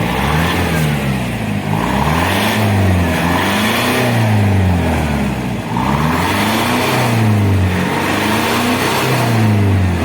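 Toyota Fortuner's 2KD four-cylinder turbodiesel revved repeatedly through an aftermarket racing exhaust with full pipe, its note rising and falling about every one and a half seconds.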